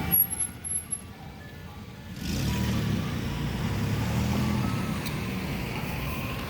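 Ice cream truck's chime tune playing faintly. About two seconds in, a vehicle engine's low rumble comes up and runs steadily.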